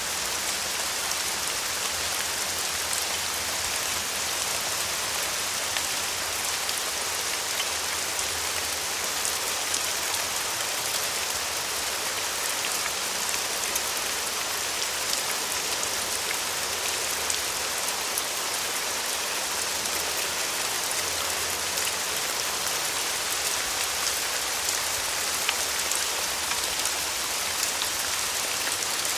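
Steady rain falling on a surface: an even hiss made up of many small drop ticks.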